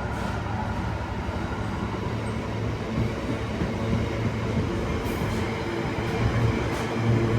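Diesel train running at a station, a steady engine drone with a low hum that grows louder near the end.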